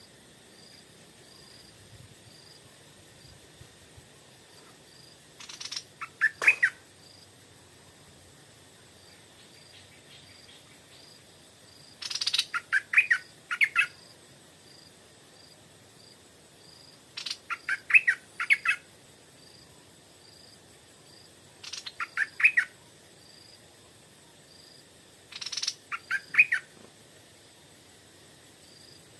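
Stripe-throated bulbul singing: five short phrases of quick, loud notes, spaced a few seconds apart.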